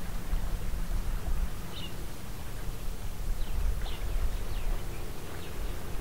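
Birds chirping with short, high calls, about five times, over a steady low rumble.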